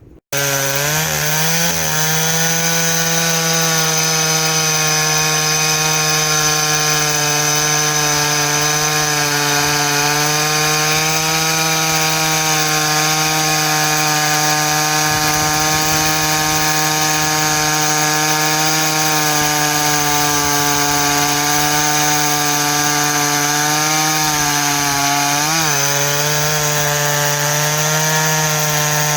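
Chainsaw running at high revs while cutting dry white oak, its pitch holding steady under load and dipping briefly near the end before recovering.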